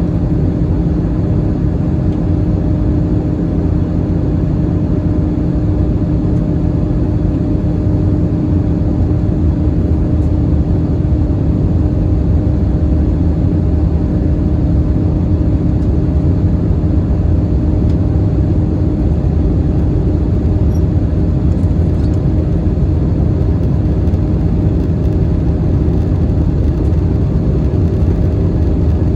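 Steady roar inside an Airbus A321-211's passenger cabin in flight: airflow and CFM56 turbofan engine drone with a few steady hum tones, heaviest in the low end and unchanging throughout.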